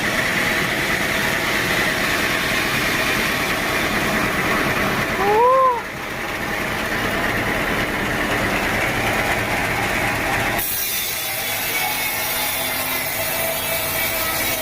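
Sawmill saw running with machinery noise, then about ten seconds in it abruptly changes to a high hissing as the blade cuts into teak wood. A brief rising-and-falling tone sounds about halfway through.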